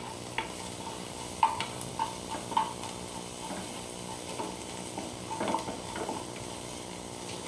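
Chopped shallots, green chilli and curry leaves sizzling steadily in hot oil in a small pan while being stirred, the stirring utensil scraping and knocking against the pan a few times, loudest about a second and a half in. The shallots are being lightly sautéed until just softened.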